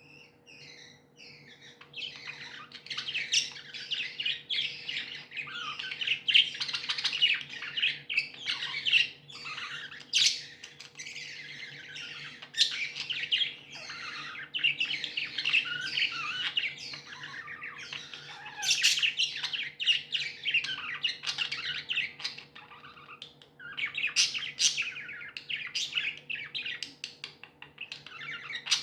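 Several budgies chattering and chirping continuously, with sharper squawks now and then, starting after about two seconds of near quiet. A faint steady hum runs underneath.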